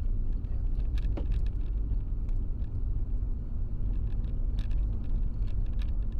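A car on the move: a steady low rumble of engine and road noise, with faint scattered clicks over it.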